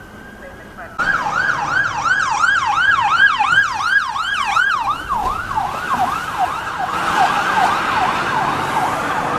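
Emergency vehicle sirens on responding fire apparatus and an ambulance: a steady high wail, joined about a second in by a loud electronic yelp sweeping down in pitch two to three times a second, which turns quicker and more jumbled from about halfway through.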